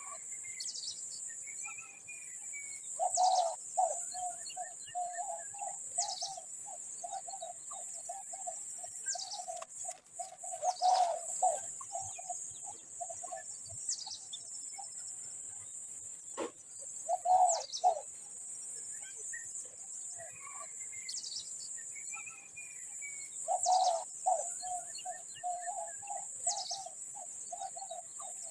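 Birds calling at a nest: short high chirps every few seconds and a low, rapidly pulsing call that runs for several seconds, stops, and returns near the end, over a steady high-pitched hiss.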